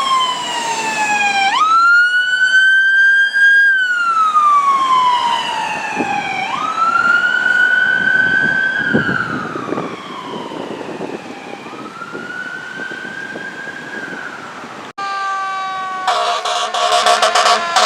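Fire apparatus siren in wail mode, rising quickly and falling slowly over and over, fading as the truck moves off. About fifteen seconds in it cuts off, and a loud blast of steady stacked tones follows near the end.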